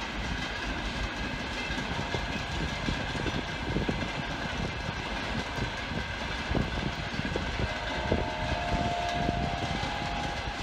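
Freight train of tank wagons rolling past, a steady rumble of wheels on rail with irregular knocks as the wheels cross rail joints. A faint high steady tone joins about eight seconds in.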